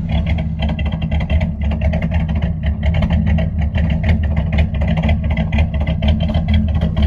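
A cammed Dodge 318 V8 running steadily at idle, its exhaust pulsing in a rapid, even beat.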